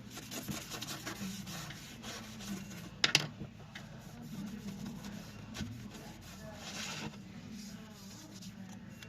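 Rubbing and scraping of hand work on a small object, with a sharp click about three seconds in, over a low steady hum.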